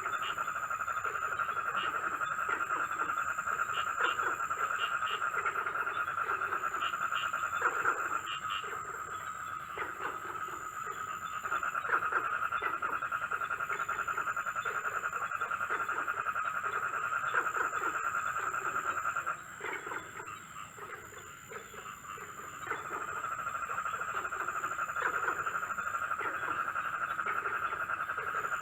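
Night chorus of frogs and insects: a steady, rapidly pulsing trill with a thin, high insect buzz switching on and off, and scattered croaking calls over it. About two-thirds of the way through, the trill stops for a few seconds, then resumes.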